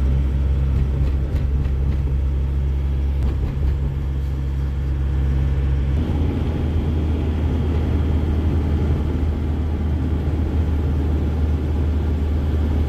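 Truck engine running steadily under way, with road noise. About six seconds in, the sound changes: the steady low hum loses some of its tones and a rougher rumble comes up.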